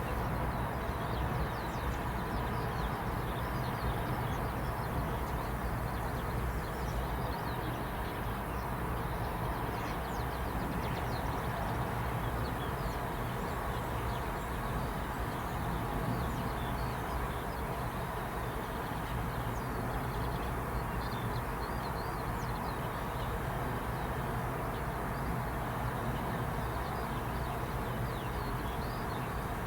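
Many quick, high chirps and twitters from small birds, scattered throughout, over a steady low hum.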